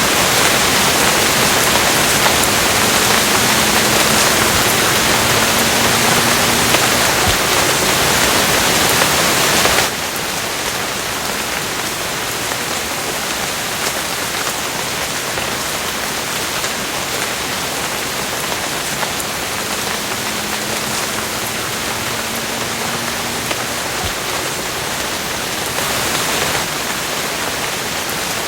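Steady, dense rain falling, a continuous hiss of drops. About ten seconds in it drops suddenly to a somewhat softer, steady downpour.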